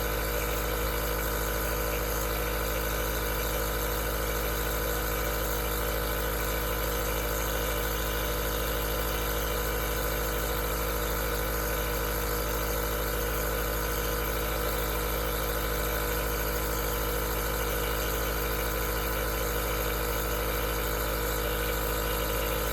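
Aerosol nebulizer running steadily: a constant hum made of several steady tones over an even airy hiss, unchanging throughout.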